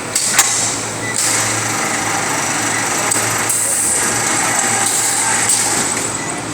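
Automatic 50 kg bagging machine running with a steady mechanical noise. Several short bursts of hiss come over it, with a sharp clack about half a second in.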